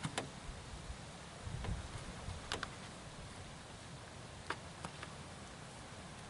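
A few scattered sharp clicks, about four or five in all, over a faint steady hiss, with a brief low rumble about a second and a half in.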